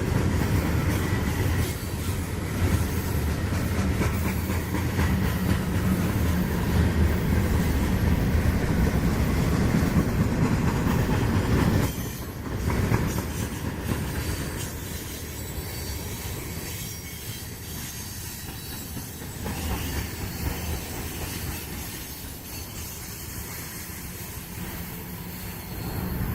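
Freight cars of a long Union Pacific manifest train rolling past, steel wheels running on the rail. The sound drops noticeably about twelve seconds in, and a faint high wheel squeal runs through the later part.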